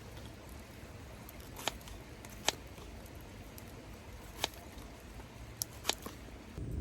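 Wood fire crackling in a small steel fire pit: a handful of sharp, irregular pops over a low steady background.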